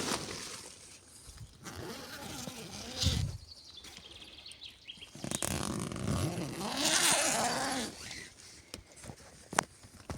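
Rustling and soft irregular steps of an animal moving close beside a tent, taken for a goose or a duck walking in the grass. There is a sharp click near the end.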